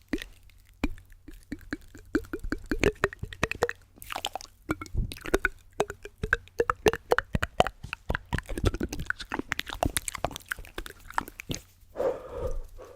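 Close-miked ASMR mouth sounds: wet clicks and pops in quick, irregular succession, with a short breathy sound near the end.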